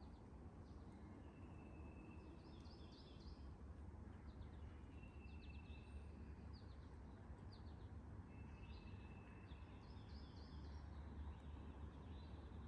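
Faint songbird song, a held whistle followed by quick chips, repeated twice about six seconds apart, over a low rumble of wind.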